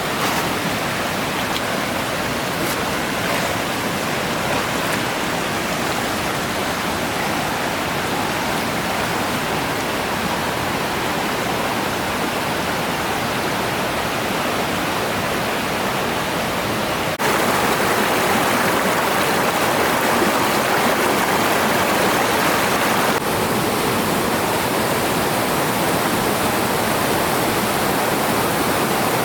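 Rushing water of a waterfall, a steady, even rush that jumps louder abruptly partway through and shifts again a few seconds later.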